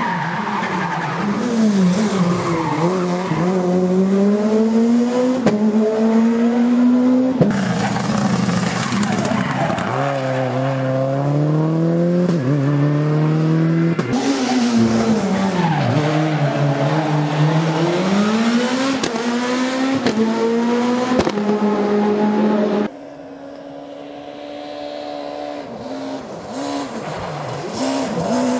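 Rally car engines at full throttle, the engine note climbing and dropping sharply again and again through gear changes, with tyre skid noise, in several short passages that cut off abruptly. About two-thirds of the way through it drops to a quieter, farther engine that grows louder near the end.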